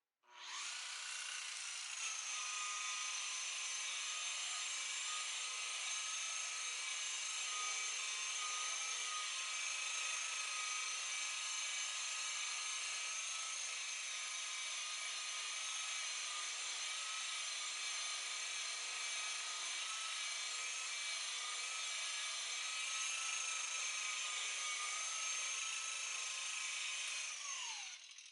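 Electric buffer/polisher motor running at a steady speed with a high whine, starting up right away and winding down with a falling pitch near the end.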